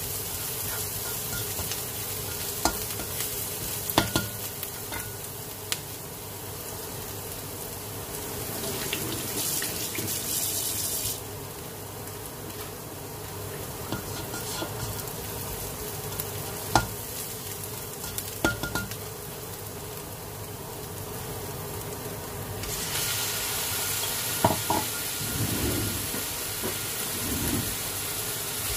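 Chopped onion sizzling in oil in a nonstick wok, stirred with a plastic slotted spatula that clicks against the pan a few times. The sizzle grows louder near the end.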